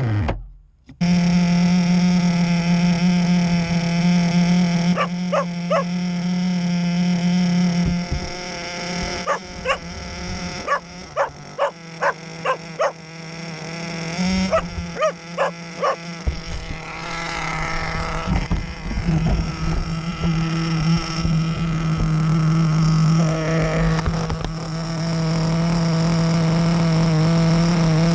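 Small two-stroke nitro glow engine of an RC car running with a steady, buzzing drone. Through the middle stretch it is blipped in a string of short, sharp bursts, then settles back to a steady run.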